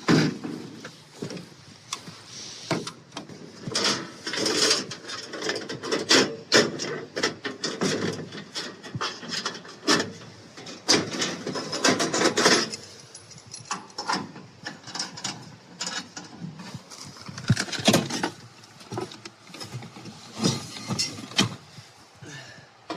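Gear being handled: irregular knocks, clinks and rustling, with no steady rhythm.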